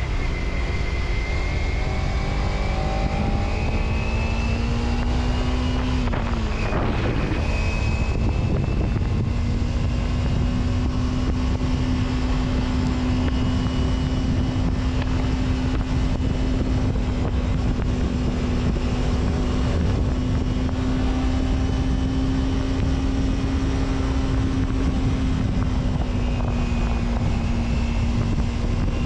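Vehicle engine running while on the move, over steady road and wind noise. The engine pitch rises slowly, dips briefly about six seconds in, then holds steady.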